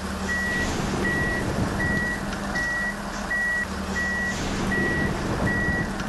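Vehicle reversing beeper sounding at an even pace, one short high beep about every three-quarters of a second, over a steady low engine drone.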